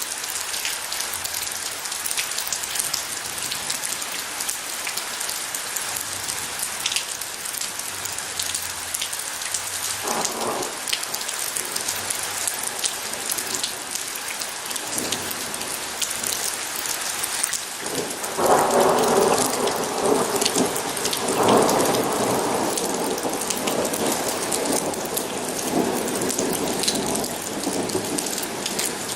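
Steady rain falling, a dense hiss scattered with individual drop impacts. A short rumble of thunder comes about ten seconds in, and a longer, louder roll of thunder starts about two-thirds of the way through, loudest as it begins, then slowly fades.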